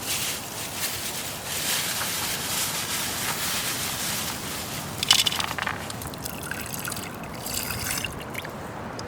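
Water trickling and sloshing, with a few sharper clicks about halfway through.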